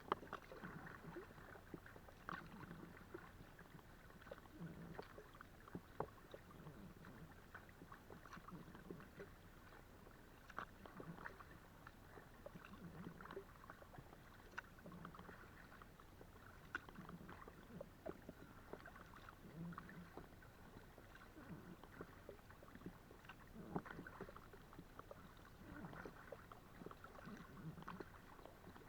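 Kayak paddle strokes in calm water, quiet. A soft splash and swirl comes about every two seconds, with water dripping and trickling between strokes and an occasional sharp knock.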